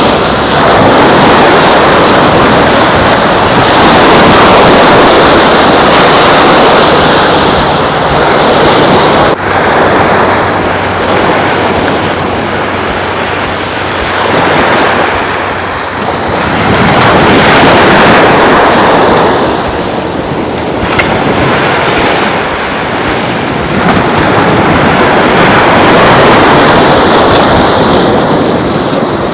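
Ocean surf washing onto the beach, with wind buffeting the microphone. The rushing noise swells and eases every few seconds, with a faint low hum under it in the first half.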